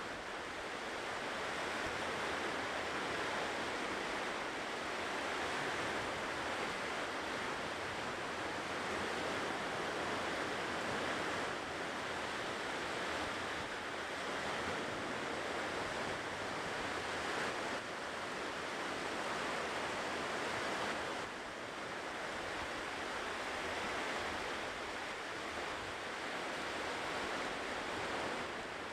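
Ocean surf washing onto a shore, a continuous hiss of breaking waves rising and easing gently.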